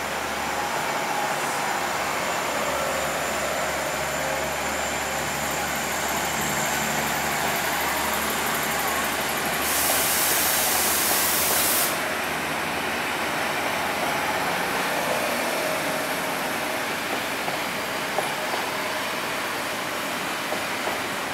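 Train running with a steady rumble and rattle. About ten seconds in, a sharp hiss cuts in for about two seconds, then stops abruptly, and a few light clicks follow near the end.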